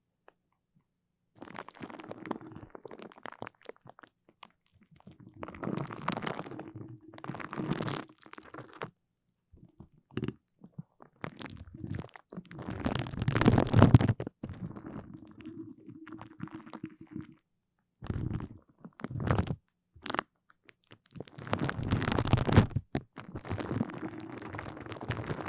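Close-miked sticky, crackly sounds from a tacky material being pressed and pulled apart, in uneven bursts separated by silences, loudest about halfway through.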